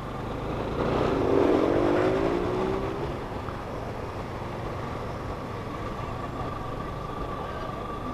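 Motorcycle riding in traffic: a steady low engine and road rumble, with another vehicle's engine passing close about a second in, louder and falling in pitch as it goes by. A faint steady whine sits above the rumble in the second half.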